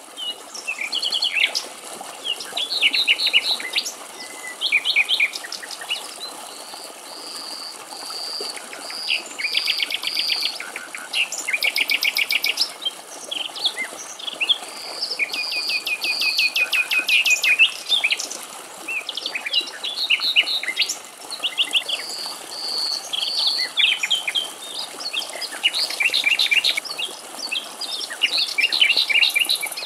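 Common nightingales singing: phrases a second or two long, each made of rapidly repeated notes, clear drawn-out whistles and fast trills, with short pauses between them.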